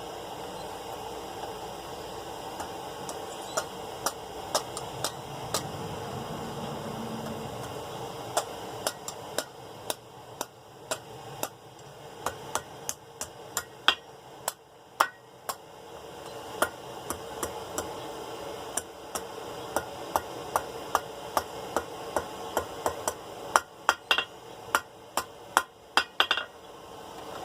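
Hand hammer striking hot half-inch round steel on an anvil while curling a scroll into the bar's tip: a long run of light, irregular blows begins a few seconds in and grows denser toward the end. A steady hiss runs underneath.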